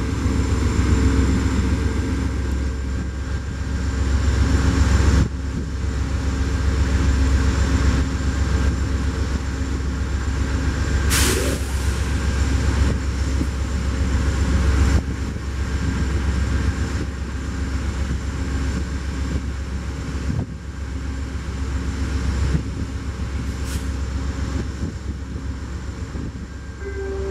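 Train running, a steady low rumble with a few steady tones through it, and a short hiss about eleven seconds in.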